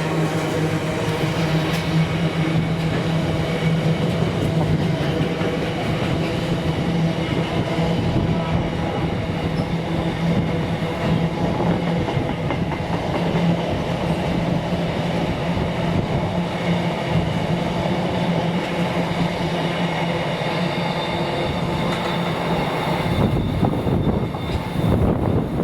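A train running past close by: a steady humming tone over the rumble and clatter of wheels on the rails. About 23 seconds in, the hum drops away and a rougher rushing noise takes over.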